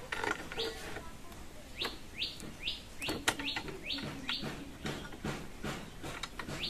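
A bird chirping over and over: about ten short, quick, sweeping calls, mostly a few tenths of a second apart. Light metallic clicks come in between as a bolt is threaded by hand into the scooter's rear carrier bracket.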